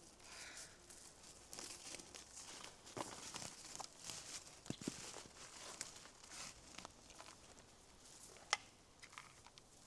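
Irregular rustling and crinkling with scattered light clicks, and one sharp click near the end.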